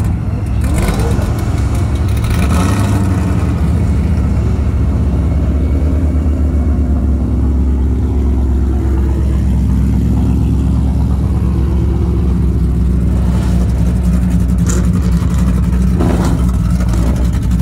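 Ford Mustang engine idling with a steady, deep exhaust note, close to the car's rear.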